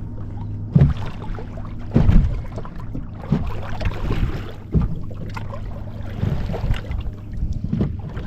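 A boat's outboard motor running steadily at low speed with a low hum, with irregular knocks and rushes of water and wind, the loudest about two seconds in.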